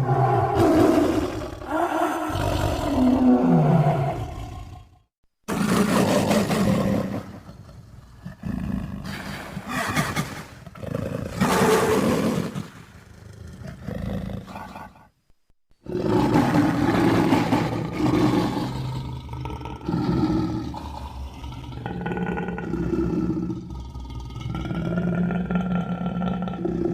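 Designed dinosaur roar sound effects for the Burrunjor, a T. rex-like creature: a string of long, loud roars broken by two short silences, about five and fifteen seconds in. The later calls turn to lower, pulsing growls.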